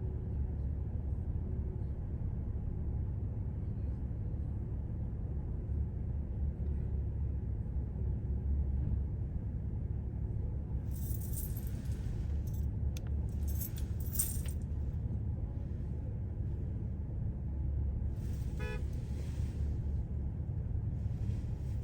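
Steady low rumble of a moving vehicle heard from inside, with short hissing, rattling bursts about halfway through and again near the end.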